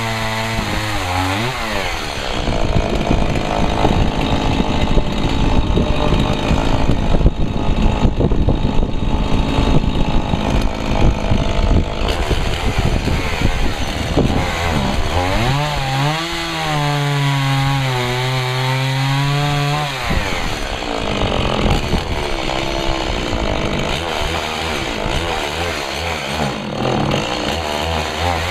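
Stihl MS 170 30cc two-stroke chainsaw at full throttle, sawing through firewood branches under load. Between about 15 and 20 seconds in it runs free out of the wood with a clear, wavering engine note, then goes back into the cut.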